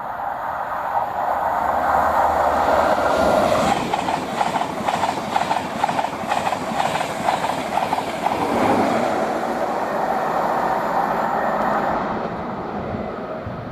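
InterCity 225 set, a Class 91 electric locomotive with Mark 4 coaches, passing at speed: a rush of wheel and air noise that swells within the first second, with a rhythmic clatter of wheels in the middle, and fading near the end.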